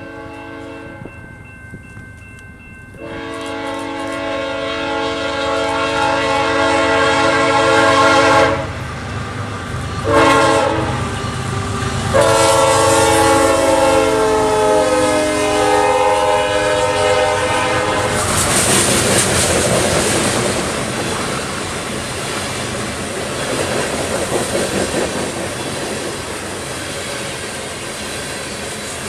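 Diesel freight locomotive horn sounding the grade-crossing pattern: the end of a long blast, then a long blast, a short one and a final long blast. After that, the lead locomotives' engines and the steel wheels of the loaded coal train make a steady rumble with clickety-clack over the rail joints.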